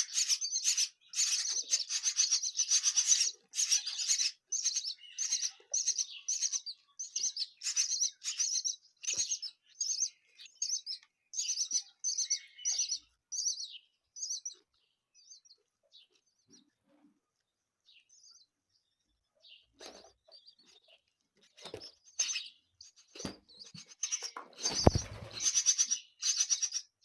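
Nestlings' begging chirps: high-pitched, rapid and repeated about twice a second. They fade away about halfway through and start up again near the end, with a single low thump among them shortly before the end.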